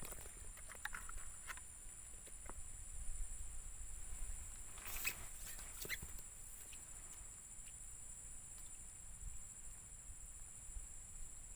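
Insects chirring steadily in two high-pitched bands, with scattered clicks and rustles, the loudest cluster of crackling about five seconds in.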